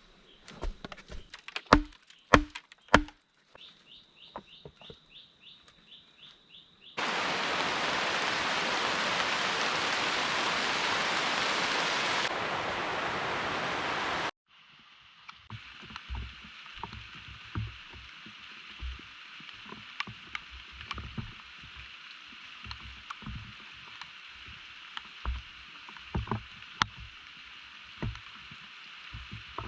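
A few sharp knocks of building work and a short run of rapid high ticking. Then loud, steady heavy rain for about seven seconds, which cuts off abruptly. A quieter steady rain hiss with scattered drips and patters follows.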